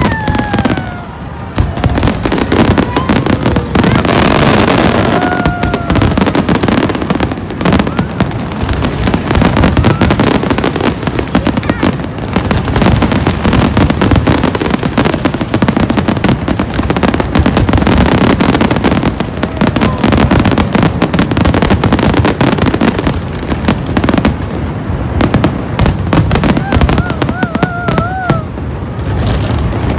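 Aerial fireworks display going off in a dense, continuous barrage of bangs and crackling, with a few brief high gliding tones among them.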